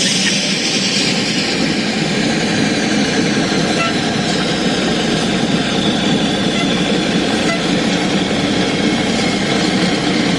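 Heavy diesel truck engine running steadily and loudly.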